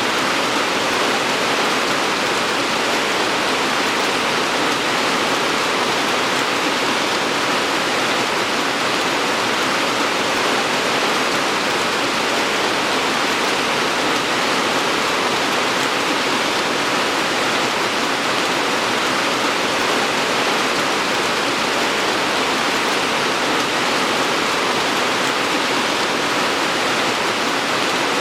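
Steady rain falling, a dense, even hiss of drops with no separate splashes or breaks.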